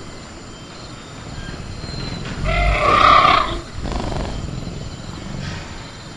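Film-style velociraptor growl sound effect: one loud, pitched snarl about a second long, starting about two and a half seconds in, followed by a shorter, fainter growl.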